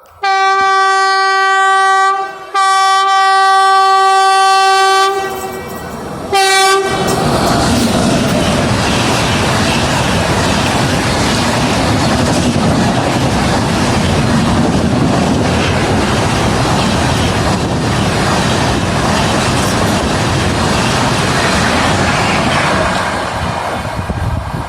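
WAP-7 electric locomotive horn sounding two long blasts and a short third one. Then the express train passes at speed, a loud steady rush of wheels and coaches with a clickety-clack on the rails, easing a little near the end.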